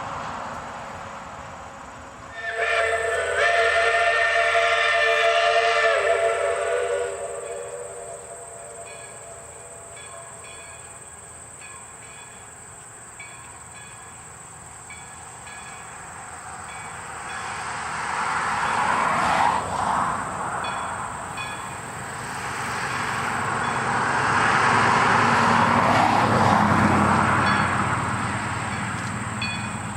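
A narrow-gauge diesel train sounds one long blast of its multi-note horn, about four and a half seconds, starting a couple of seconds in. Later the train draws near and runs past, with engine and wheel noise swelling to a peak in the last third.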